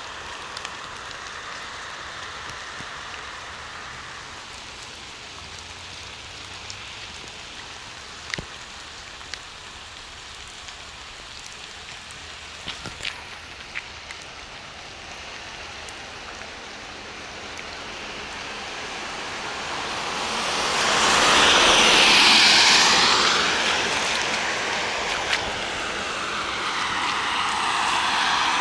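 Steady rain hissing on pavement, with a few sharp ticks. About two-thirds of the way in, a car passes on the wet road: its tyre spray swells to the loudest point and fades, and another vehicle starts coming up near the end.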